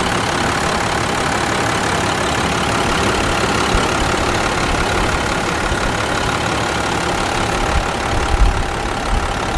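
2002 International 7400 grain truck's DT 530 inline-six diesel engine idling steadily.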